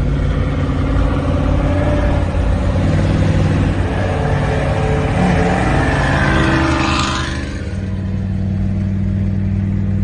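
V8 of a third-generation F-body running at highway speed, with tyre and wind noise. Its pitch rises for a few seconds as it accelerates, peaks with a rush of noise about seven seconds in, then settles back to a steady drone.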